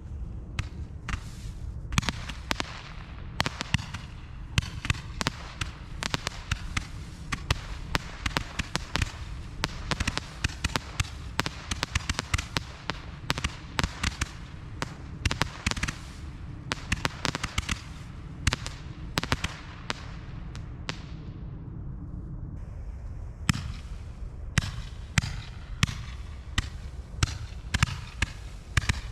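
Tiki Candles roman candles, a pack of five fused together, firing a rapid string of comet shots and bangs. The firing pauses briefly about three-quarters of the way through, then starts up again.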